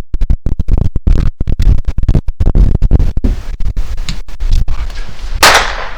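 Airsoft guns firing in rapid, choppy bursts, with a brief loud rushing noise about five and a half seconds in.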